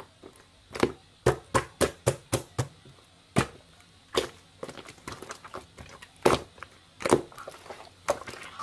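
Slime being squeezed and pressed by hand, giving a string of sharp, irregular clicks and pops.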